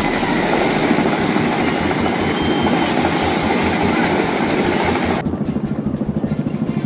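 Boeing Vertol CH-46 Sea Knight tandem-rotor helicopter running close by: a steady rhythmic rotor chop over heavy engine and wind noise. About five seconds in, the sound cuts abruptly to a different, faster pulsing sound.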